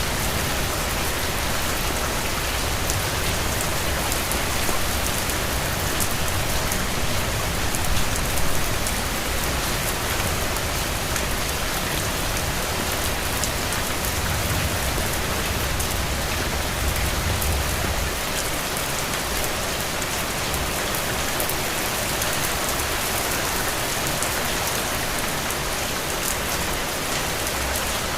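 Steady rain falling, an even hiss of many drops, with a low rumble underneath that swells a little a few times.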